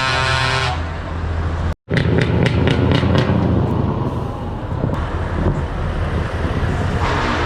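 Heavy truck engines running with traffic rumble as trucks pull out. A few short clicks come soon after a brief cut about two seconds in.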